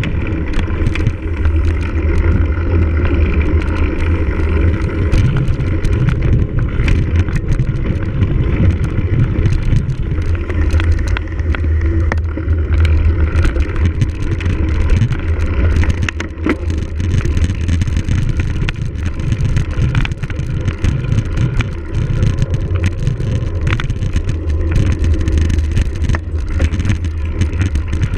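Cyclocross bike ridden hard over rough ground: heavy wind rumble on the microphone, with tyre noise and a steady stream of rattles and knocks from the bike over bumps.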